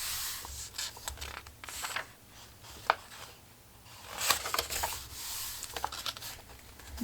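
Paper pages of a collage book being turned and handled: several short rustles and slides of paper, with a small click about halfway through.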